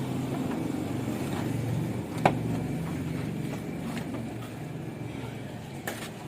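Truck's diesel engine running steadily, easing off slightly toward the end, with a sharp click about two seconds in and a smaller one near the end.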